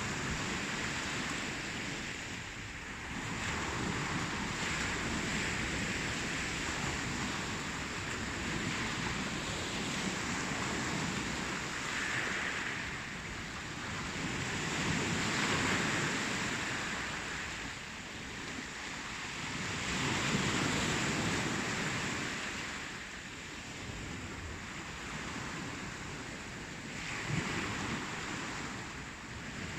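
Ocean waves breaking and washing on the shore, a continuous surf rush that swells and recedes every few seconds.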